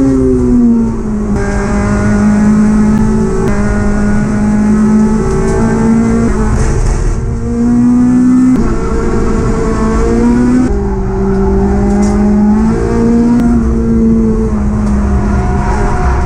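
Honda Civic Type R race car's four-cylinder engine at full throttle, heard from inside the stripped cockpit. Its note climbs and then drops sharply several times as gears are changed.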